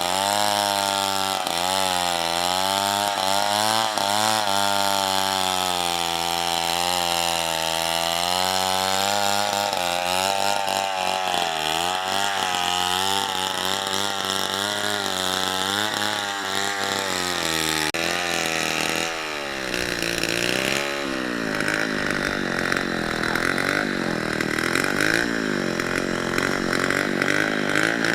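A two-stroke chainsaw running at high revs while cutting wood, its engine pitch wavering up and down as the chain loads and frees in the cut. About two-thirds of the way through the pitch drops and swings more widely.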